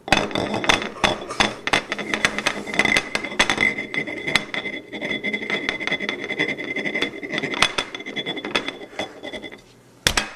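Rapid, irregular clattering and knocking, many sharp hits a second, over a steady high whine. It starts abruptly and stops shortly before the end.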